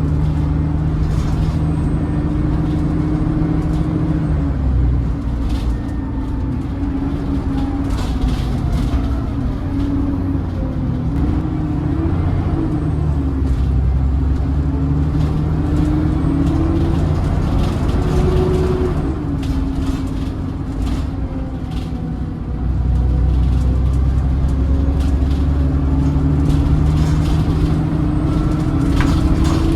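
Alexander Dennis Enviro400 double-decker bus heard from on board, its engine drone and whine rising and falling in pitch as it pulls away and slows, with rattles from the bodywork. The loudness drops for a few seconds and then steps back up about three quarters of the way through.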